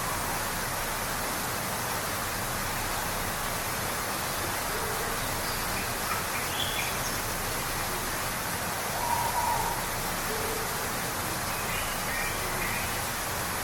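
Waterfall rushing in a steady, even roar, with a few short, faint bird calls over it.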